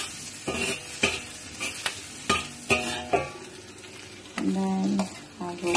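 Diced ginger sizzling in butter and oil in a wok on low heat, while a metal spatula scrapes and knocks against the wok about every half second for the first three seconds. A short pitched sound comes near the end.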